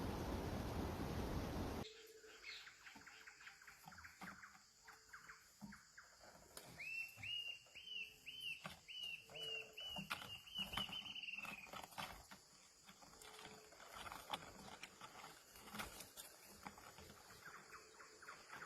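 A steady rushing noise cuts off abruptly about two seconds in. Then, among scattered short clicks and chirps, a bird calls a run of about a dozen quick, evenly spaced repeated notes lasting about five seconds.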